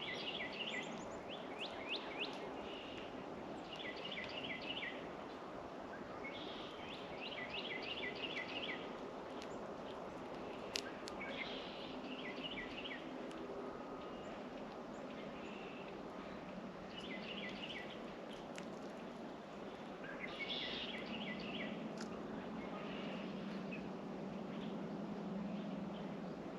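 Small songbirds chirping: short runs of quick, falling notes repeated every couple of seconds, over a steady outdoor hiss.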